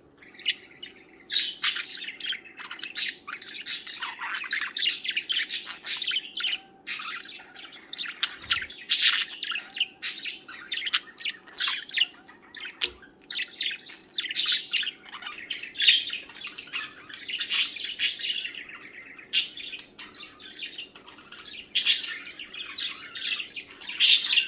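Budgerigars chirping and warbling in a continuous, busy chatter, with sharp squawks mixed in: a male budgie's song.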